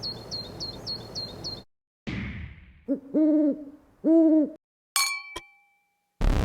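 A run of short sound effects: about six quick high chirps, a falling whoosh, two long owl-like hoots, then a sharp metallic clang with a ringing tail and a brief loud burst near the end.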